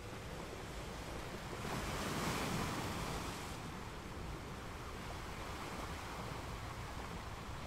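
Steady road and tyre noise heard from inside a car cruising at about 40 mph, with a rushing swell about two seconds in as an oncoming pickup truck passes in the other lane.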